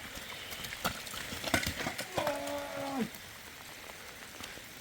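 A few sharp knocks, then a single short, even-pitched cow moo lasting under a second, over faint rain.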